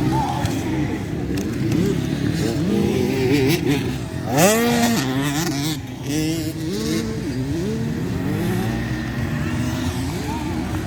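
Motocross bike engines revving hard and shifting, their pitch climbing and dropping again and again, with the loudest sharp rev about four seconds in.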